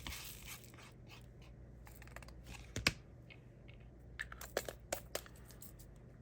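Scattered light clicks and taps of diamond painting: a drill pen picking up and pressing small drills onto the canvas, with a sharper tap about three seconds in and a quick run of clicks around four to five seconds.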